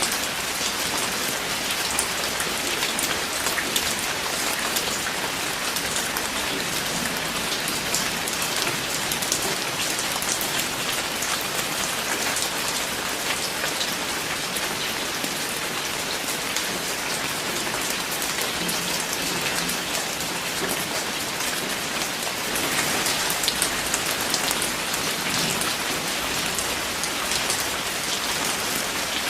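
Steady rain falling, a dense hiss of many drops pattering on a surface, growing a little heavier for a few seconds about two-thirds of the way through.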